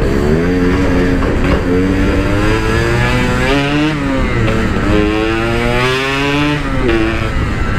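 Yamaha RX-King's 135cc two-stroke single-cylinder engine under way, its pitch climbing and falling back about three times as the throttle is opened and eased off.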